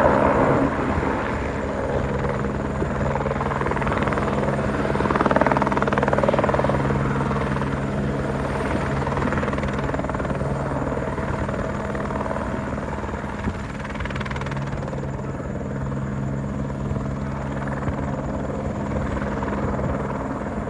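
Eurocopter AS350 Écureuil (Airbus H125) helicopter running steadily with a continuous rotor and turbine drone during its landing, its level easing slightly over the second half.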